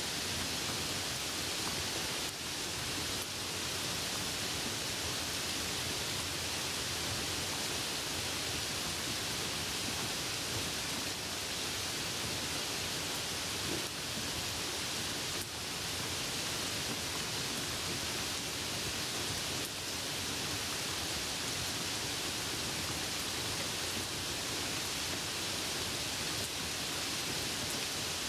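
Steady hiss of rain and a car's tyres on a wet road while driving, an even, unbroken wash of noise.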